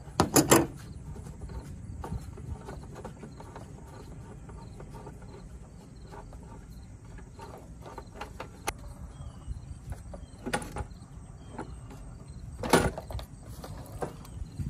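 Irregular clicks and knocks from hand work on a car's air cleaner housing as it is unclipped and removed, the loudest a quick cluster of knocks about half a second in and one sharp knock a couple of seconds before the end. A steady low rumble of highway traffic runs underneath.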